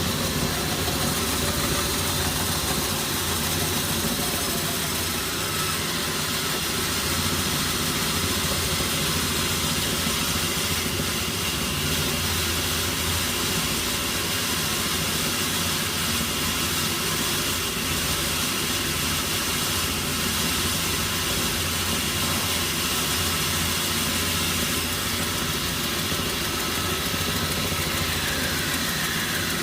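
Sawmill machinery running steadily with an even, engine-like hum that holds the same level throughout.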